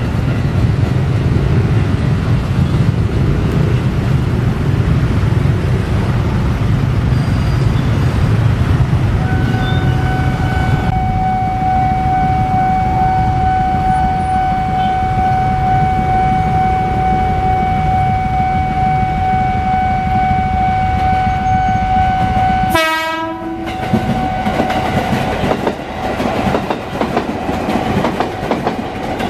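Ex-JR 205 series electric commuter train running past over the level crossing, a heavy low rumble with wheel clatter. About ten seconds in, a steady high-pitched tone starts and holds for roughly twelve seconds before breaking off sharply, and train noise carries on after.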